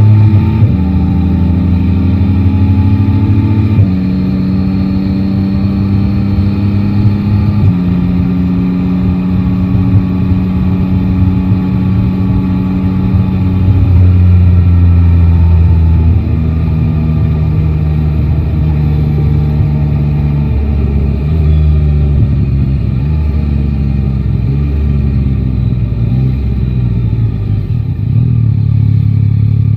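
Yamaha Tracer 9 GT's inline three-cylinder engine under way, its pitch holding steady and then jumping at each gear change through the first half. Past the middle the engine note falls away as the bike slows, then climbs again near the end as it pulls away.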